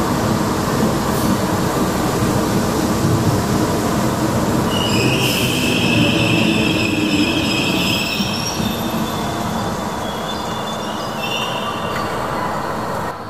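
DART electric multiple unit running slowly along a station platform, its wheels and running gear rumbling steadily. High-pitched wheel squeal on the rails comes in about five seconds in for several seconds, then briefly again near the end.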